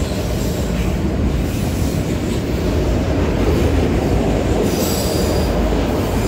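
Cars of a mixed manifest freight train rolling past: a steady rumble of steel wheels on the rails.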